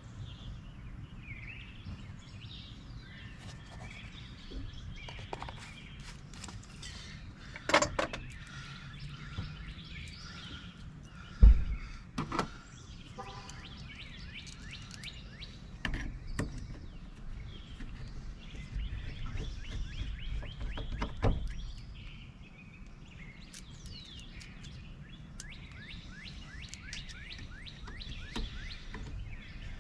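Birds chirping through a steady background hiss, with a few sharp clicks and knocks of small metal lock parts and tools being handled; the loudest knock comes about eleven seconds in.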